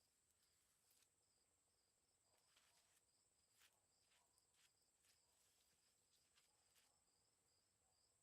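Near silence: a faint steady high-pitched tone with a faint high pulse about three times a second, and a few faint clicks.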